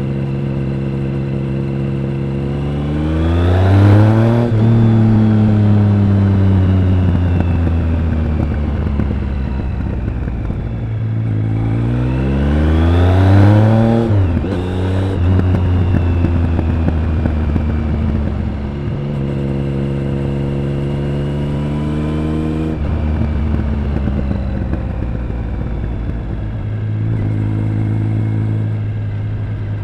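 Triumph Speed Triple 1050's inline three-cylinder engine and exhaust on the move. It accelerates hard twice, rising in pitch about three seconds in and again about eleven seconds in, then eases off, with steady running in between and toward the end.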